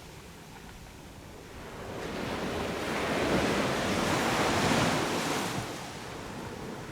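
Sea waves on a beach: one wave swells, breaks and washes up the shore, loudest around the middle and fading away before the end.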